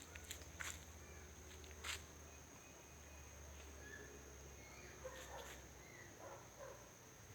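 Faint outdoor ambience: a steady high-pitched insect drone, with a few sharp clicks in the first two seconds and faint short chirps in the second half.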